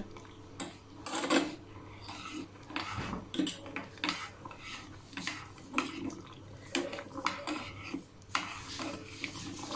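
Spoon clinking and scraping against a saucepan in irregular strokes, stirring sugar into hot water as it dissolves into syrup.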